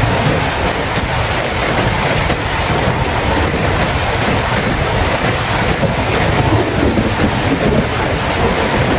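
Heavy rain falling steadily, with a constant low rumble beneath it.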